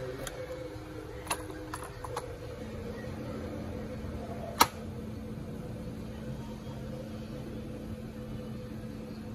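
A few light clicks, then one sharp click a little under five seconds in, over a steady low hum that gains a second low tone about two and a half seconds in.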